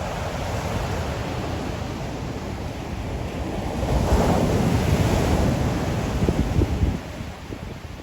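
Ocean waves breaking on the shore, with wind rumbling on the microphone. The surf swells to its loudest about halfway through and falls away near the end.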